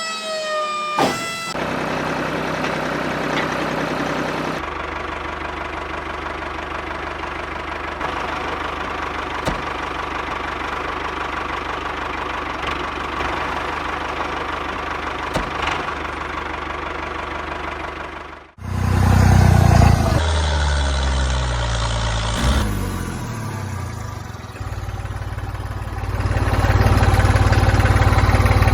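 An engine-like machine sound running steadily. About eighteen seconds in it breaks off abruptly, then comes back louder and lower with a few falling pitch sweeps, and near the end it settles into a steady loud run.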